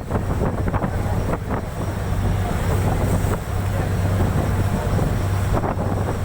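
A boat's engine running with a steady low hum, under wind buffeting the microphone.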